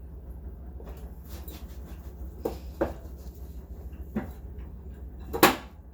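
Kitchen cookware being handled: about four separate knocks and clunks, the loudest just before the end, over a steady low hum.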